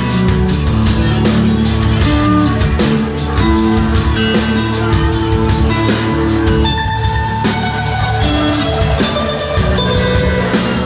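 Live rock band playing: guitars over a steady drum-kit beat.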